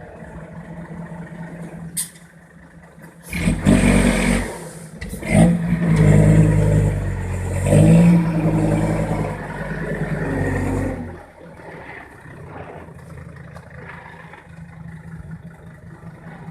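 Six-wheel dump truck's diesel engine idling, then revving hard for about eight seconds with the pitch rising and falling before it drops back to idle. A sharp click sounds shortly before the revving begins.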